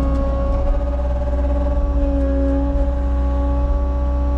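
Cat 279 skid steer's diesel engine running steadily under work, a deep rumble with a steady whine over it.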